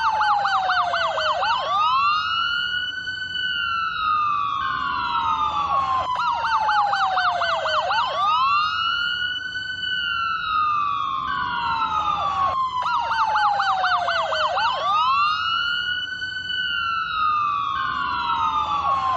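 American police car electronic siren sounding in a repeating cycle: a fast yelp warble, then a slow wail rising and falling, then a falling sweep. Several layered tones, with the cycle repeating about every six and a half seconds.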